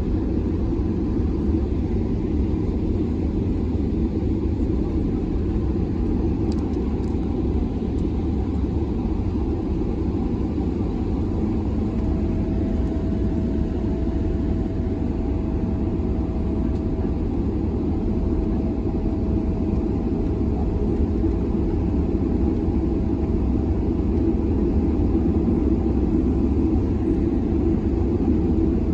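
Cabin noise of an Airbus A330-300 on its landing approach: a steady low rumble of engines and airflow. A faint steady whine joins about twelve seconds in.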